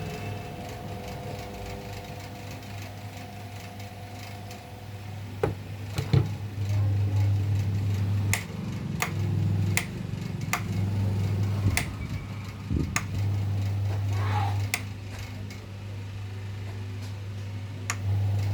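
Table fan's electric motor humming in short spells that start and stop abruptly about five times, with sharp clicks in between.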